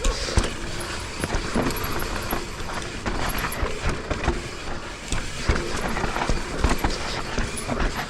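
Mountain bike riding down a steep dirt trail: tyres rolling and skidding on dirt with the bike's chain and frame clattering over bumps in a run of irregular knocks.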